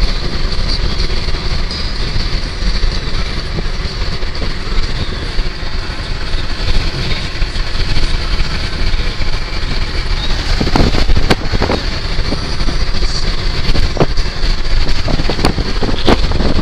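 Gusting wind buffeting the microphone in a steady, heavy rumble, with a few sharp clicks about two-thirds of the way through and again near the end.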